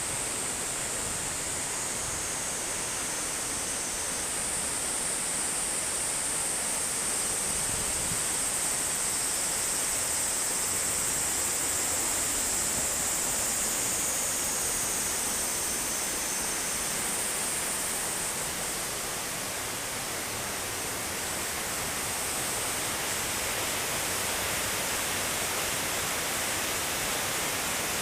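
Harajiri Falls, a waterfall, pouring steadily: an even rush of falling water with a high hiss, easing slightly for a moment near the two-thirds point.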